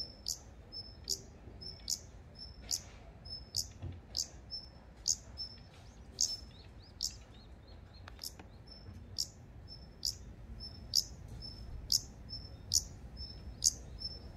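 Daurian redstart calling from its nest in the roof tiles: a thin high whistle followed by a sharp tick, repeated steadily about twice a second.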